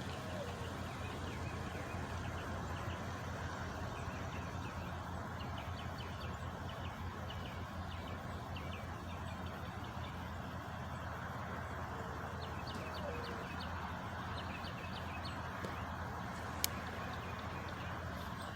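Truck engine idling with a steady low hum, while small birds chirp over it. One sharp click near the end.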